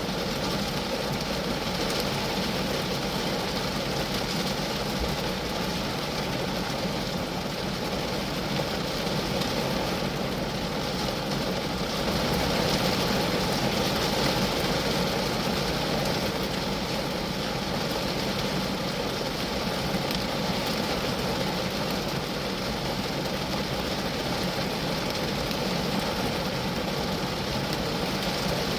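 Rain falling steadily on a Geo Metro, a dense, even patter of drops on the car's body, swelling a little about halfway through.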